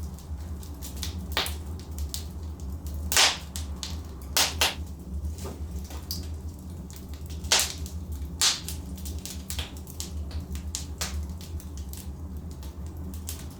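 Wood fire of burning logs crackling, with irregular sharp pops over a steady low rumble of the flames; the loudest snaps come about three seconds in and twice more around seven to nine seconds in.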